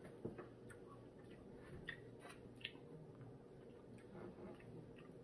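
Faint eating sounds: a handful of soft, scattered clicks and mouth noises from someone chewing a mouthful of fried rice, over a low steady hum.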